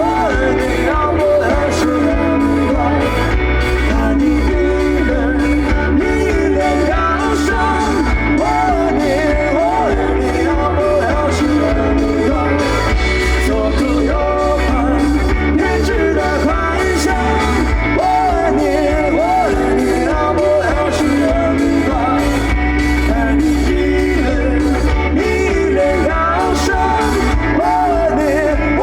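Pop-rock band playing live with lead vocals singing over bass, drums and guitar, a steady beat throughout.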